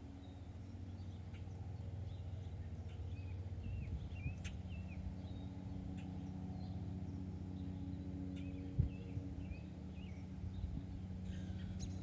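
Small backyard birds chirping in short, scattered bursts of quick wavy notes over a steady low hum. A single knock sounds about three-quarters of the way through.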